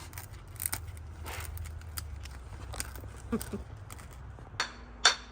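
Cockatoo biting and tearing at a Scrub Daddy foam sponge with its beak: scattered small crunching clicks, with a few louder, sharper clicks about half a second apart near the end.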